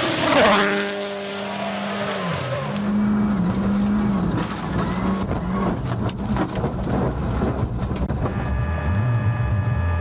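Rally car engine at high revs on a gravel stage. Its note falls steeply as the car goes by about half a second in, then holds a steady pitch with a brief dip and rise. Several seconds of dense crackling and rattling follow.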